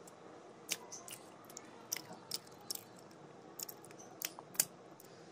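A person chewing food close to the microphone, with sharp wet mouth clicks and lip smacks scattered unevenly through it, the loudest near the end.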